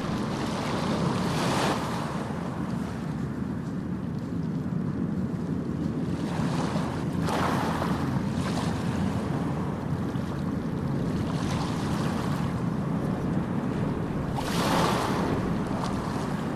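Ocean surf: a steady rush of water, with three waves breaking about six seconds apart.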